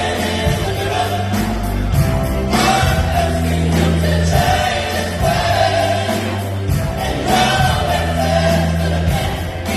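Gospel choir singing with a band, held sustained notes over a steady bass line.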